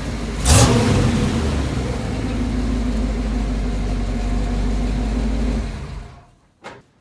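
Chevrolet 454 big-block V8 in a square-body pickup running hard under heavy throttle, with a sharp loud burst about half a second in. It then holds steady and fades away quickly near the end.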